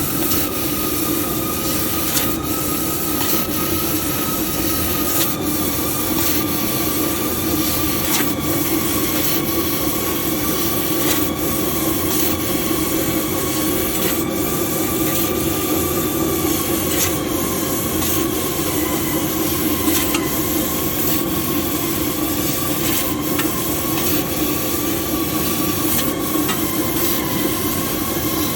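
CNC laser cutting machine running: a steady hiss and hum with a whining tone that wavers slightly in pitch, and faint ticks about every three seconds.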